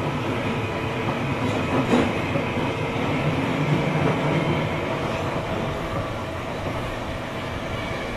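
Tobu 9000 series chopper-controlled train running through a subway tunnel, heard from inside the car: a steady rumble of wheels and motors with thin high tones over it and a click from the rail about two seconds in. This car's motor sound is unusual for the class, one the recordist likens to the Tokyo Metro 8000 series.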